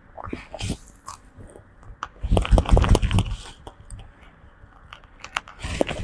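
Close crunchy biting and chewing sounds from a monkey grooming, with irregular clicks and two louder bursts, one about two seconds in and one near the end.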